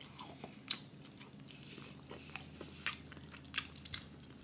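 A person chewing a mouthful of rotisserie chicken, with short mouth clicks and smacks at irregular moments.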